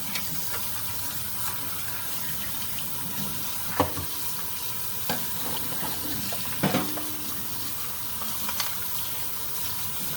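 Tap water running steadily into a sink as robot vacuum parts are rinsed under it, with a few light knocks as the parts are handled.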